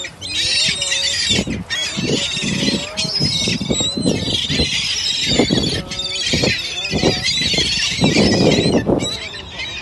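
A flock of small birds chirping and chattering densely and without pause while feeding. Several low rushing bursts are mixed in, the loudest about eight to nine seconds in.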